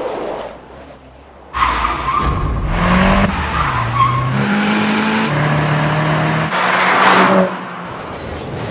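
Opel Adam S engine revving hard, its pitch climbing and stepping through gear changes, with tyre squeal over it twice.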